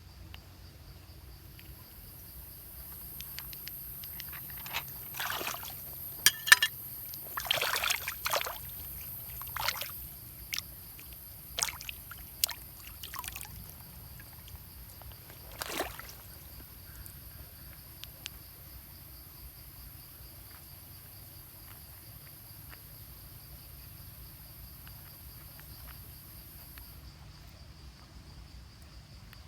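Water sloshing and splashing in a series of short bursts, over a steady high insect drone.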